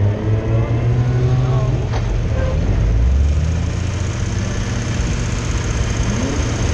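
BMW E30's engine running steadily as the car drives and turns, heard from a camera on its bonnet, with a strong low rumble.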